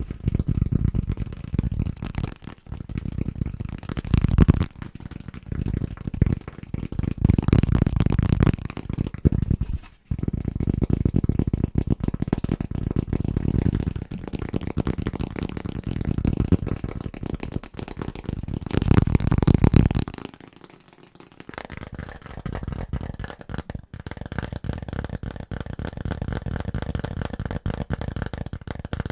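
Fast, aggressive tapping on household objects, a dense stream of rapid knocks with a short break about ten seconds in. About twenty seconds in it switches to a lighter, quieter, higher-sounding tapping.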